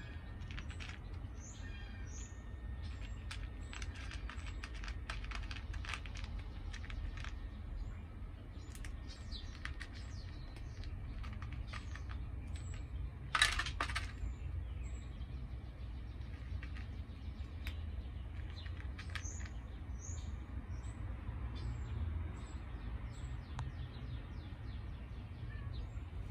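Small birds chirping now and then over a steady low outdoor rumble, with one sharp knock about halfway through.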